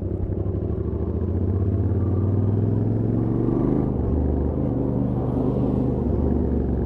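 Royal Enfield Interceptor 650's 648 cc parallel-twin engine through its stock exhaust, accelerating on the highway. The engine note climbs, drops sharply about four seconds in as it shifts up, then climbs again.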